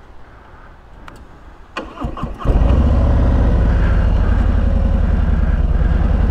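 2021 Harley-Davidson Street Glide's V-twin engine starting: a few clicks and a short crank about two seconds in, then it catches and settles into a steady, loud idle.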